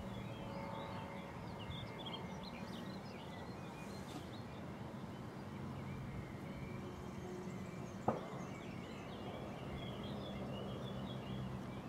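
Small birds chirping and singing in a thin, scattered chorus over a steady low hum, with one sharp click about eight seconds in.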